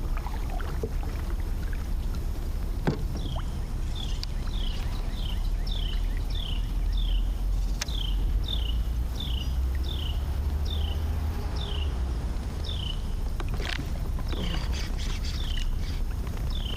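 A bird repeats a short, falling chirp about twice a second over a steady low rumble. A few sharp knocks stand out, one about three seconds in and another near the two-thirds mark.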